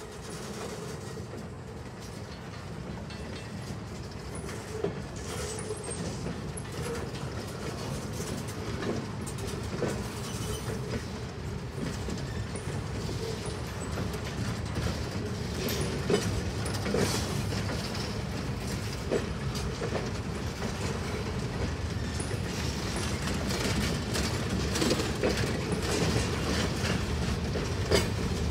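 Boxcars of a CSX freight train rolling past, steel wheels clicking over the rail joints with scattered clanks and knocks. The rumble grows steadily louder.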